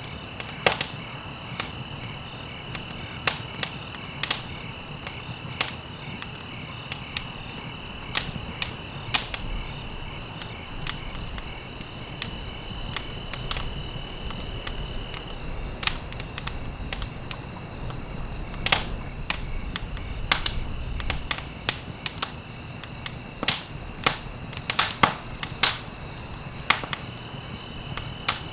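Wood fire crackling and popping: irregular sharp snaps, several a second at times, over a low steady rumble. A steady high trill of crickets runs behind it; its lower tone drops out about halfway through and returns a few seconds later.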